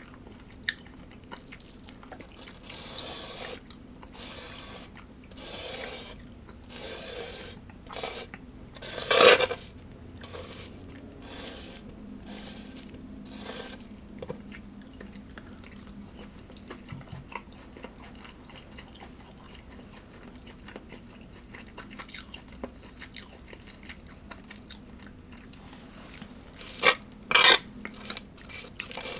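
A person chewing food close to the microphone, with crunching bites about once a second in the first half, one louder crunch about nine seconds in, and softer chewing after. A few sharp clicks come near the end, over a faint steady hum.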